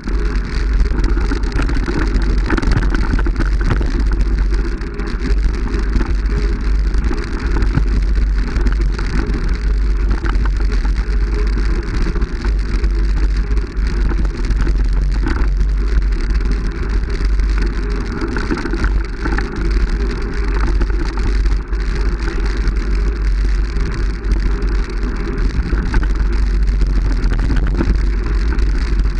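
Continuous loud low rumble with a hiss over it, unbroken and steady in level.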